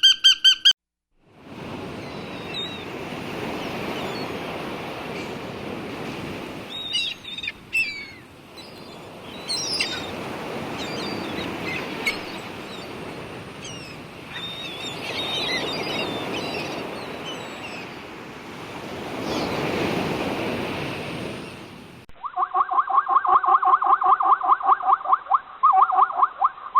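Surf washing in slow swells, with small birds chirping high over it at intervals. Near the end it cuts to a different animal making rapid, repeated calls.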